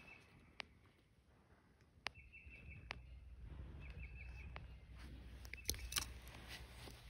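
Quiet woodland ambience with a small bird giving short, high trilled phrases about three times, and a few isolated sharp clicks.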